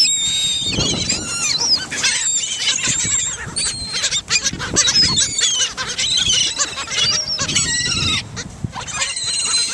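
A flock of seagulls calling over and over, many shrill, overlapping cries as they are fed pizza crust.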